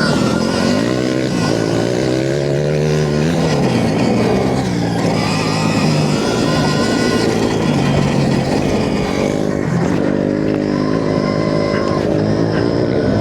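Stark Varg electric motocross bike's motor and drivetrain whining under way, the pitch rising and falling repeatedly as the throttle is opened and rolled off.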